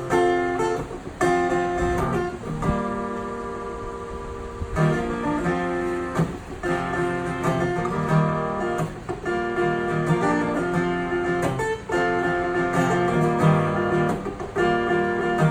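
Acoustic guitar strumming a run of chords, the instrumental intro of a song before the vocals come in.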